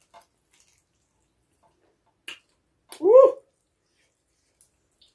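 Two or three sharp clicks, then a loud, short "Woo!" that rises and falls in pitch, a person's exclamation at the heat of very spicy chicken feet.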